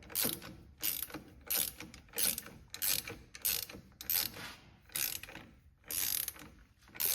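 Ratcheting wrench clicking in short runs, about one and a half strokes a second, as it turns the bushing install tool to move a steering rack bushing through its bore.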